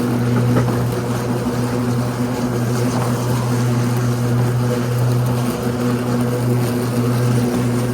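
Ryobi 80V electric riding lawn tractor mowing, its electric blade motors spinning the blades with a steady, even hum.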